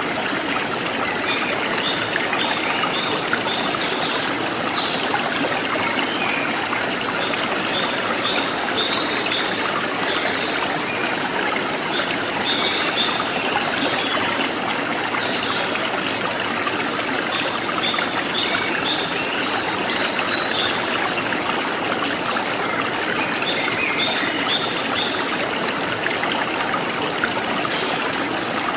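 Forest stream trickling steadily, with a wild bird repeating a short phrase of quick high notes about every four to five seconds.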